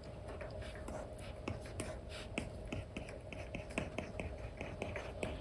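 Apple Pencil 2 with an Elecom nib tapping and stroking across a paper-like matte screen protector on an iPad: quick irregular taps mixed with short scratchy strokes.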